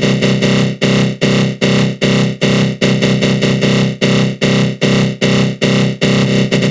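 Synthesized 'attack growl' sound effect from the GMS synth in FL Studio Mobile: a harsh, flanged growl pulsing about two and a half times a second, each pulse hitting hard and fading. Near the end it turns into a rapid stutter.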